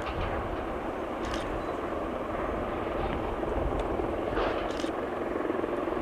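Helicopter flying past, its rotor and engine noise steady and slowly growing louder.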